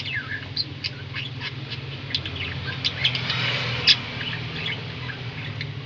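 Two small pet birds chirping: many short, high, quick chirps, a few a second, with a steady low hum underneath.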